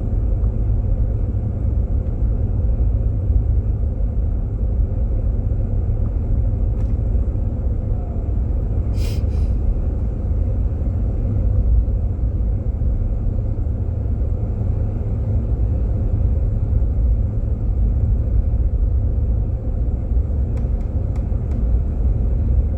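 Steady low road and engine rumble inside the cabin of a Jeep Grand Cherokee driving on snowy roads. A brief hiss comes about nine seconds in.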